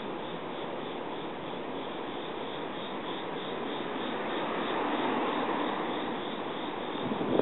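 Crickets chirping in a steady pulsing rhythm, about three pulses a second, over a rushing background noise that swells about halfway through and then fades.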